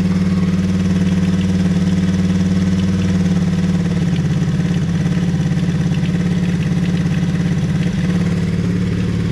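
Hawk 110cc ATV's small single-cylinder four-stroke engine running steadily at a fast idle after a carburetor swap, with the choke off. The idle is still set high enough that the ATV wants to creep forward, and it is being turned down at the carburetor.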